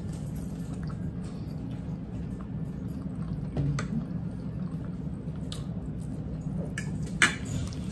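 Chewing and wet mouth sounds of people eating, with a few sharp clicks, the loudest near the end, over a low steady hum.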